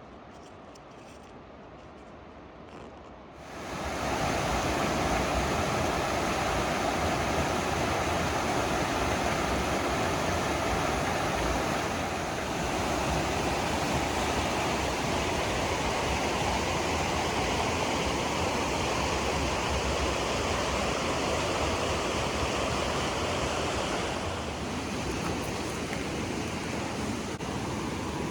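Quiet at first, then rushing water cuts in suddenly about three and a half seconds in and carries on as a loud, steady rush of a fast creek or waterfall.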